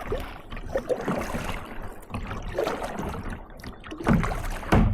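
Kayak paddling: water splashing and dripping off the paddle blades, with a low thump near the end.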